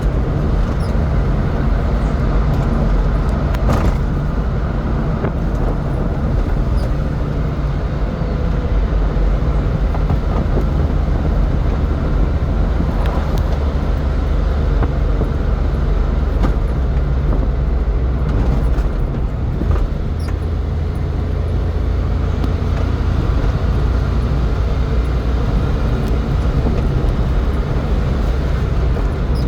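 Honda kei truck driven flat out at its maximum speed: a steady engine drone with road and wind noise, a heavy low rumble.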